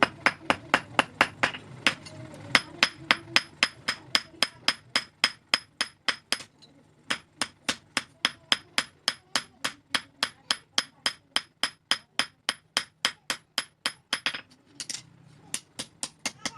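Blacksmith's hammer striking steel on an anvil in a quick, even rhythm of about four blows a second, each blow with a high metallic ring, as the steel for a pair of scissors is forged. The hammering breaks off briefly twice.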